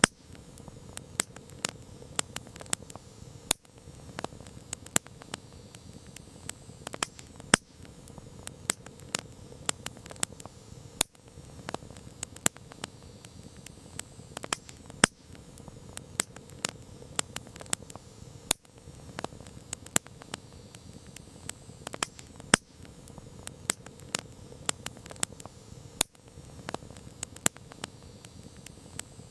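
Wood campfire crackling: irregular sharp pops and snaps of burning wood, several a second, over a low steady rush of flame.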